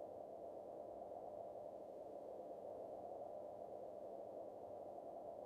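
Faint steady low hum with a few thin steady tones in it, close to silence.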